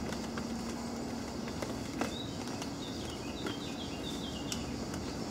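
Outdoor ambience with a steady low hum. From about two seconds in, a bird chirps in quick runs of short high notes.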